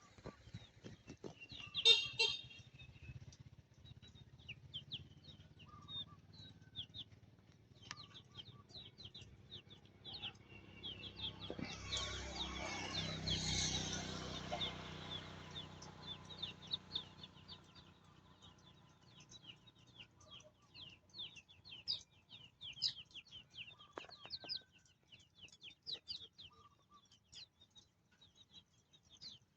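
Chicks peeping over and over in quick, high chirps. A short louder burst comes about two seconds in, and a rush of noise swells and fades in the middle.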